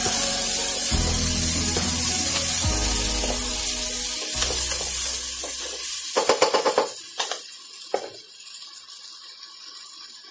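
Crab masala sizzling as it fries in a pressure cooker pot and is stirred with a spoon. A quick run of sharp clicks about six seconds in, with two more just after, is the spoon knocking against the pot. The sound is quieter near the end.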